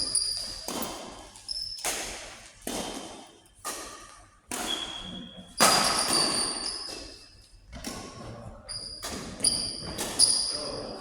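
A rally in a doubles match on an indoor court: a run of sharp hits, roughly one a second, ringing in the hall. Short high squeaks, like shoes on the court floor, come between them.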